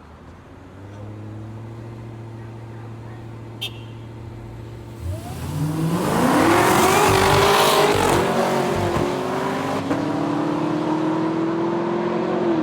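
A car engine running steadily, then revved hard about five seconds in, rising in pitch into a few seconds of loud full-throttle acceleration, then easing back to a steady, slowly climbing pull.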